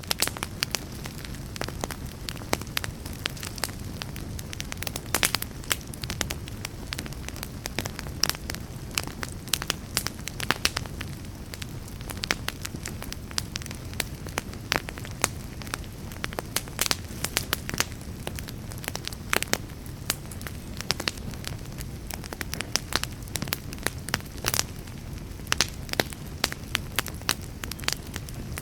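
Wood fire burning in a fireplace, crackling: frequent irregular sharp snaps and pops over a steady low rumble of the flames.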